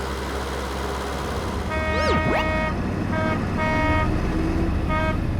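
Truck engine running steadily, then about two seconds in its horn sounds in a series of long and short toots. A brief rising-and-falling whistle-like sweep comes with the first toot.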